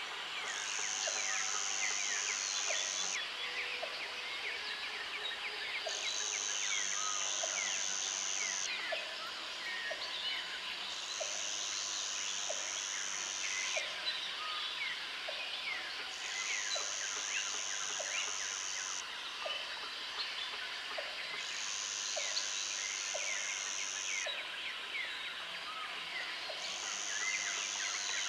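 Jungle insect and bird chorus: a high-pitched insect buzz comes in bouts of about three seconds with short pauses between, six times. Underneath runs a dense chatter of small chirping calls and a regular tick about once a second.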